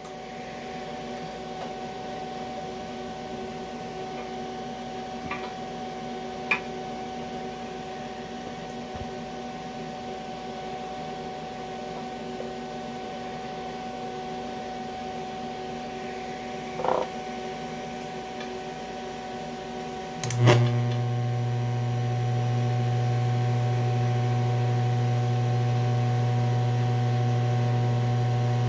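TIG welding machine humming steadily. About twenty seconds in there is a sharp click and the hum becomes louder and deeper and holds steady, as the DC electrode-positive welding current comes on.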